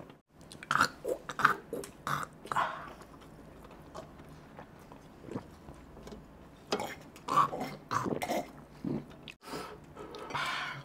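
Close-up eating sounds of people chewing mouthfuls of rice and meat taken by hand: wet chewing and lip smacks in two clusters, about a second in and again around seven seconds, with a short breathy noise near the end.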